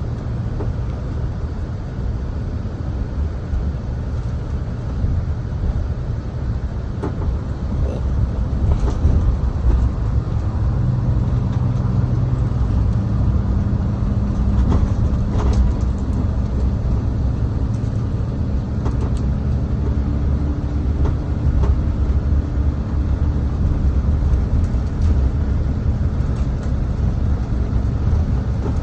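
A motor vehicle's engine running with a steady low rumble. About eleven seconds in, an engine hum comes in over it and holds for roughly a quarter of a minute.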